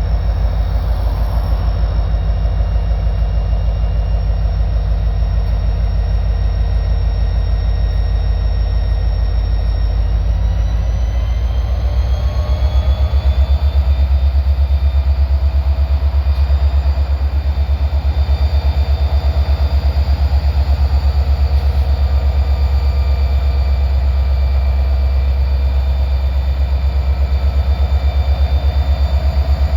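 Diesel locomotive engine running with a deep, pulsing drone. About eleven seconds in it rises in pitch and gets louder, as the engine throttles up to pull the cars, then holds steady.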